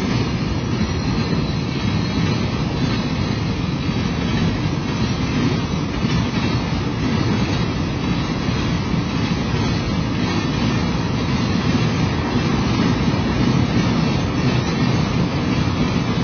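Freight train of loaded flatcars rolling steadily past: a continuous low noise of steel wheels on the rails.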